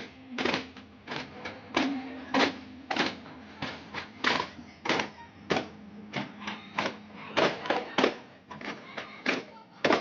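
Daf frame drums of a daf muttu group beaten in a steady rhythm, a strong stroke about every 0.6 seconds with lighter strokes between.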